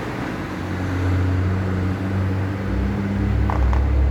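Low, steady rumble of engines running, its pitch shifting slightly, with a couple of faint clicks about three and a half seconds in.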